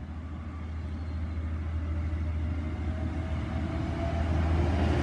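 A diesel suburban train approaching the station, its low engine and track rumble growing steadily louder.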